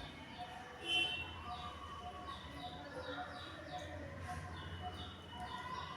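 Pet parrots chirping: a steady run of short, falling chirps repeating several times a second, with one louder call about a second in.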